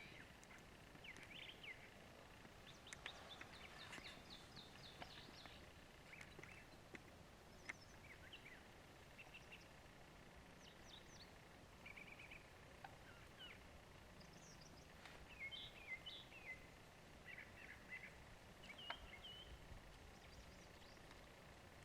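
Faint songbirds chirping and trilling on and off, with a few soft clicks, over a low steady background hiss.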